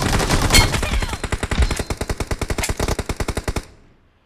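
Video game automatic gunfire: a rapid, evenly spaced stream of shots that stops suddenly about three and a half seconds in.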